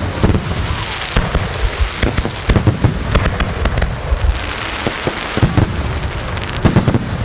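Fireworks display: a rapid, irregular series of bangs and crackles from bursting aerial shells, over a continuous crackle.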